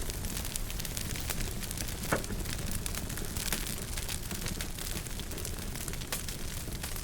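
Wood fire crackling in a fireplace: a steady low rumble of flames under many small snaps and pops, with one louder pop about two seconds in.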